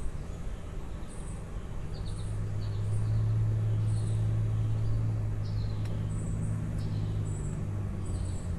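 Small birds chirping in short, high, repeated notes, over a low steady hum that grows louder from about two seconds in and drops away near the end.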